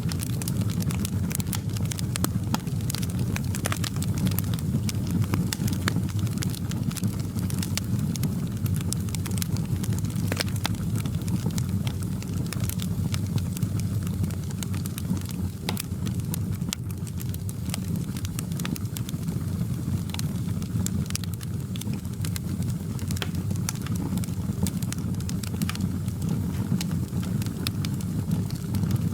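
Wood fire crackling in a fireplace: a steady low rumble of flames with frequent sharp, irregular pops and crackles.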